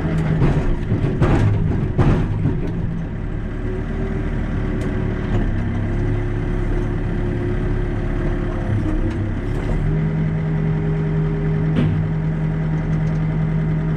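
Heavy diesel engine of the machinery running steadily, with a few knocks in the first two seconds; about ten seconds in a stronger, steady low hum comes in as the engine note changes.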